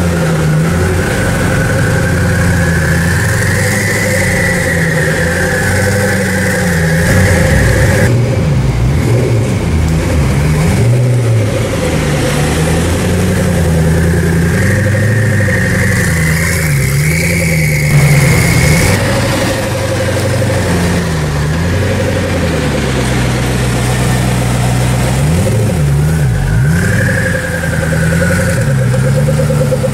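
Koenigsegg Agera R's twin-turbo V8 running at low speed, its revs rising and falling in short blips over a steady rumble.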